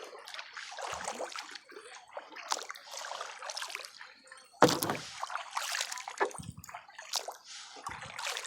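Kayak paddle strokes: water splashing and dripping off the blades in a repeated rhythm, about one stroke a second. A single sharp knock about four and a half seconds in is the loudest sound.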